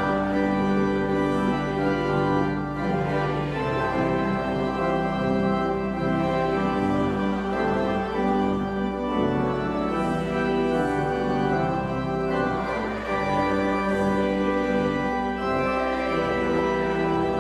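Church organ playing music in held chords that change every second or so.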